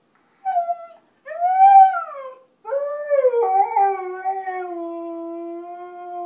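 Husky howling: two short calls that rise and fall in pitch, then a long howl that drops in pitch a little past three seconds in and holds steady.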